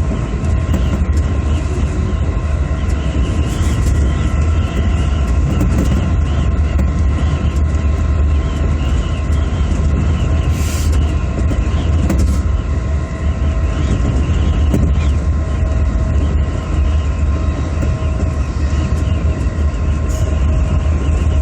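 Electric commuter train running steadily between stations, heard from inside the car: a constant low rumble with a steady hum of several tones over it. A brief sharp click comes once, about eleven seconds in.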